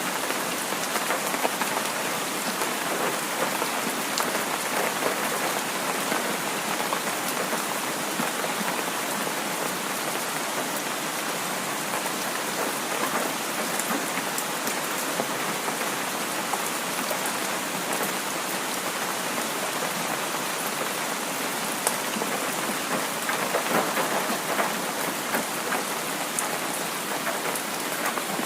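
Heavy rain falling steadily: a dense, even patter with scattered sharper drop ticks.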